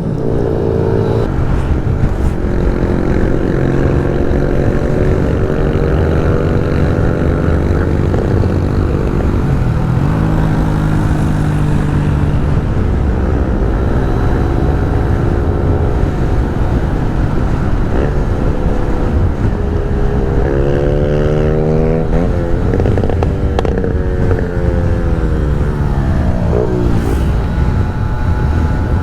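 Piaggio Zip scooter engine running on the move, its pitch falling and rising several times as the throttle is eased and opened again. A steady wind rumble on the microphone runs underneath.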